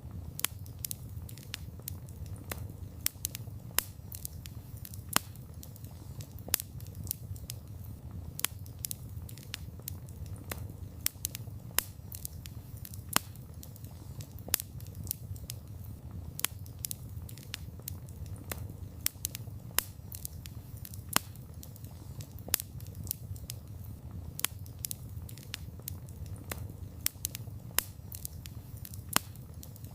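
Wood campfire crackling: irregular sharp pops and snaps, a few louder than the rest, over a steady low rumble of burning flames.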